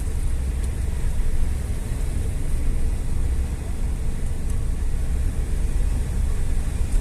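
Steady low rumble of a moving road vehicle, engine and road noise running without a break.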